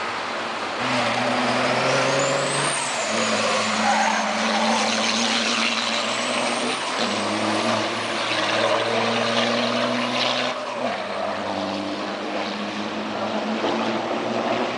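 Formula Truck diesel racing trucks' engines running, the engine note holding and then changing pitch in steps several times. A high whistle rises and falls about two to three seconds in.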